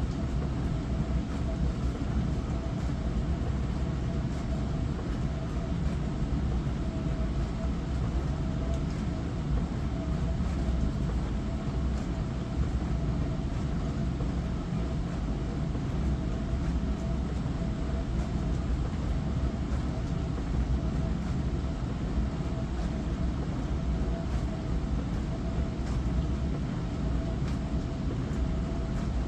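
Hava glass-front dishwasher running its wash cycle: the pump motor hums steadily while water sprays and splashes over the dishes inside, with a faint steady whine from the motor.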